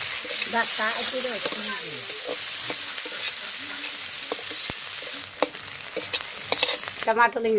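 Chopped onion and dry red chillies sizzling in hot oil in a metal karahi, stirred with a steel spatula that clicks against the pan now and then. The sizzle eases about five seconds in.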